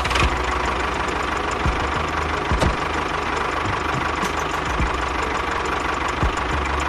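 An engine running steadily at idle with a rapid, even low knocking beat.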